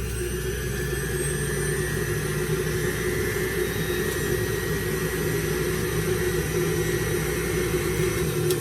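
Electric juicer motor running steadily with a constant hum and whine as it works dragon fruit.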